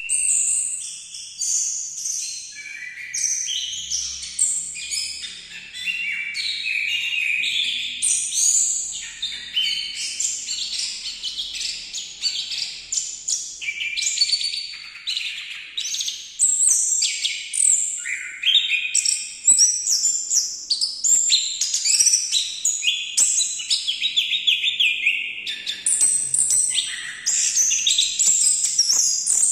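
An anis thrush (Geokichla) sings a long, continuous, varied song: rapid phrase after phrase of high, quick notes, with hardly a break.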